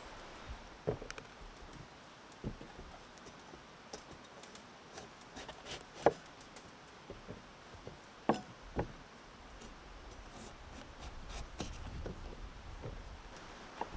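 Sporadic light knocks and clicks of hands handling things, the sharpest about six and a half and eight seconds in.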